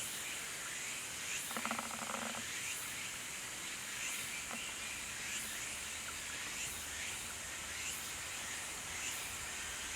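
Forest ambience: insects calling in a steady high hiss, with a short repeated call about once a second. There is a brief buzz about two seconds in.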